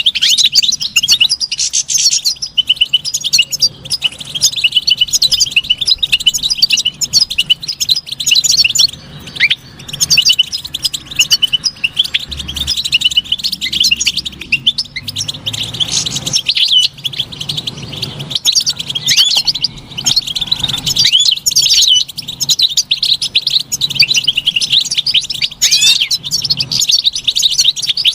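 European goldfinch singing: a continuous, rapid twittering song of quick high chirps and trills, with a few sliding notes here and there.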